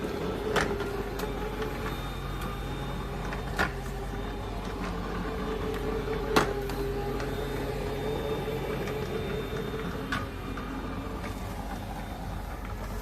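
Small robot vacuum cleaner running with a steady motor hum whose pitch wavers slightly, with four sharp knocks spread through it.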